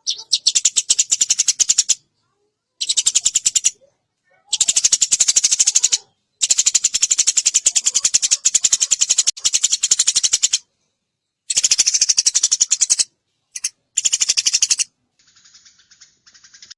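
Eurasian tree sparrow chattering: very fast, tight runs of repeated sharp chirps in bursts of one to four seconds with short breaks, fainter near the end.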